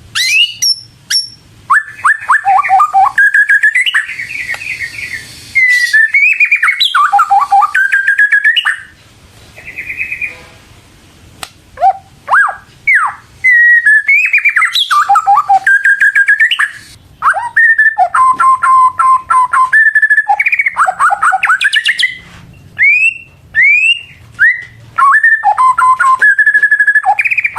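White-rumped shama (murai batu) singing loudly: a long string of varied whistled phrases and rapid trills, breaking off briefly about ten seconds in.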